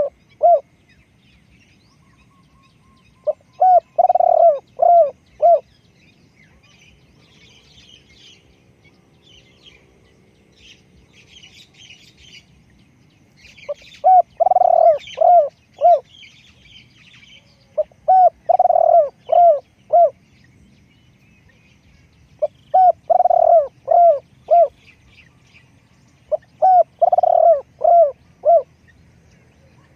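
Spotted dove cooing: loud phrases of several short coos, each a couple of seconds long, repeated about five times with pauses between. Small birds chirp faintly in the gaps.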